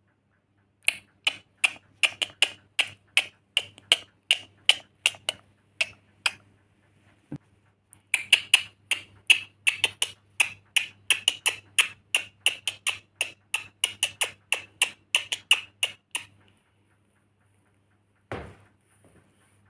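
A steady run of sharp clicks, about two to three a second, thinning out for a couple of seconds in the middle and stopping near the end, followed by a single low thump.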